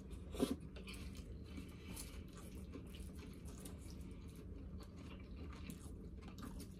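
Close-up chewing of a lettuce salad: soft, wet crunching and mouth clicks, faint, over a steady low hum.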